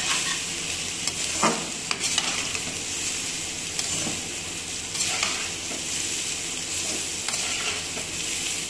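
Egg fried rice sizzling in a hot pan while a spatula stirs and tosses it: a steady frying hiss with scraping swishes about once a second. Two sharp knocks of the spatula on the pan come about one and a half to two seconds in.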